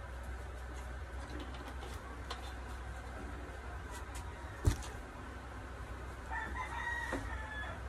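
A bird's long pitched call near the end, lasting about a second and a half, over a low steady hum. A single sharp knock about halfway through is the loudest sound.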